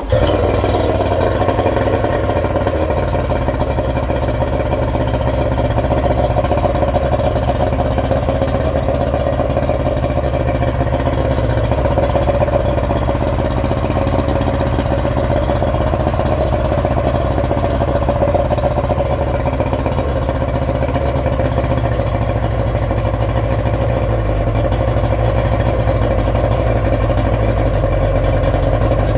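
Yamaha 90 hp three-cylinder two-stroke outboard motor, freshly rebuilt, on its first run. It comes in abruptly at the start and then runs steadily.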